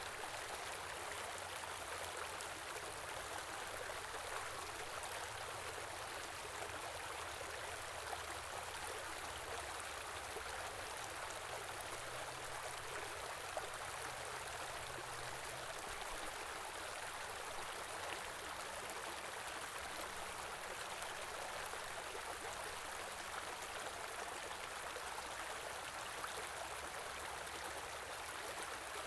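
Shallow stream running, a steady rush of water with fine splashing and no change in level.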